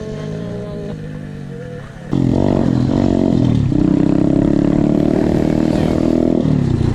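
Pit bike engine, loud from about two seconds in: revved up and down a few times, then held at high revs for a few seconds before dropping back near the end.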